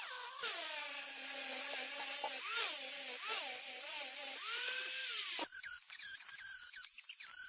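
Electric power tool whining, its pitch sliding up and down as it speeds up, slows under load and is let off, then running higher and more unevenly about halfway through.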